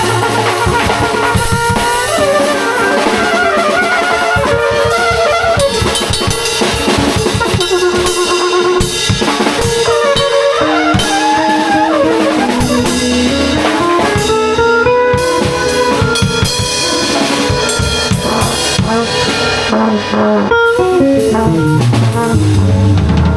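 Live band improvising: a drum kit plays a busy beat with rimshots under bending, wavering melodic lead lines. Low bass notes grow stronger near the end.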